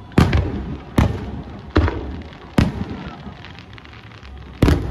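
Aerial firework shells bursting: four booming bangs in quick succession, a little under a second apart, then a pause and a fifth bang near the end, each trailing off into a rumbling echo.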